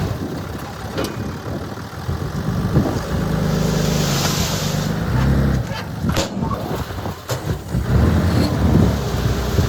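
Heavy diesel earthmoving machinery running, its engine note stronger for a couple of seconds in the middle. A short hiss comes about four seconds in, and a few sharp knocks and clanks follow later.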